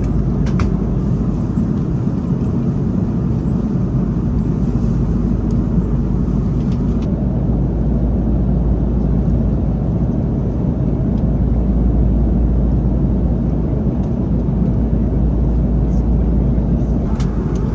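Steady cabin noise of an Airbus A330 in cruise: a constant low-pitched drone of engines and airflow, heard from a passenger seat.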